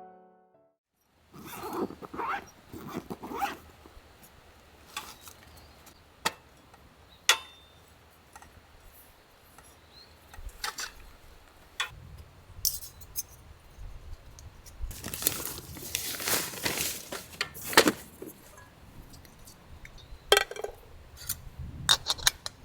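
Gear being handled by hand: scattered sharp clinks, clicks and scrapes, with a denser patch of clattering and rustling around two-thirds of the way through.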